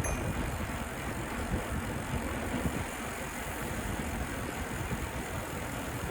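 Steady low rumble and hiss of riding a bicycle on city streets: wind and road noise.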